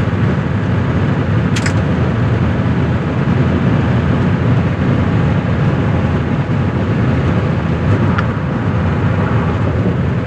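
1985 Mercedes-Benz W123 300D's five-cylinder turbo diesel running under way, with a steady, deep engine and road rumble heard from inside the cabin. A short click sounds about a second and a half in, and a fainter one around eight seconds in.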